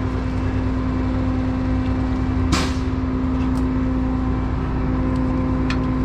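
Truck engine idling steadily with an even hum. A short sharp clank about two and a half seconds in, and a few light clicks near the end.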